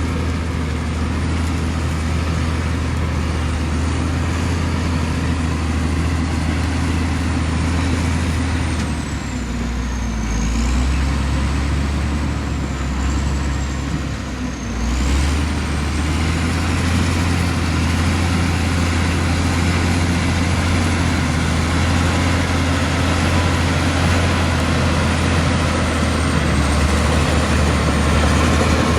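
Komatsu D65E bulldozer's diesel engine running steadily under load, its pitch sagging briefly twice about a third and halfway through before picking back up, with a thin high whistle that drops and rises along with it.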